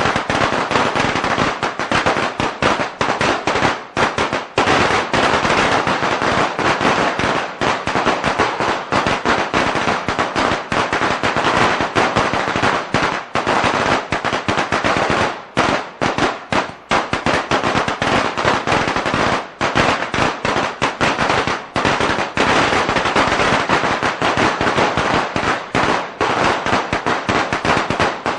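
A string of Chinese firecrackers (鞭炮) going off in a dense, rapid, continuous crackle of sharp bangs, with a few brief gaps about halfway through.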